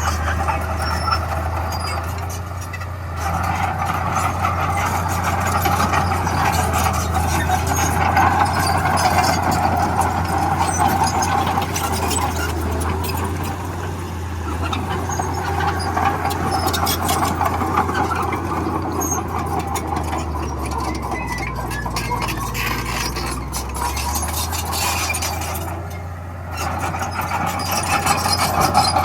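Diesel engine of heavy earthmoving machinery running under load, a steady low hum with a rougher rumble that swells and eases as the work goes on. The sound drops briefly twice, about three seconds in and again near the end.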